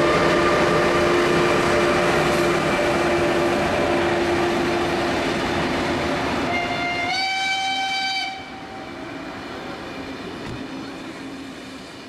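ÖBB Taurus class 1116 electric locomotive hauling a Railjet, accelerating away. Its traction converters hum in steady tones over the rolling of the train, then step up in pitch about seven seconds in, the locomotive's characteristic ascending scale. The tones cut off about a second later, leaving the fainter rolling of the passing coaches fading away.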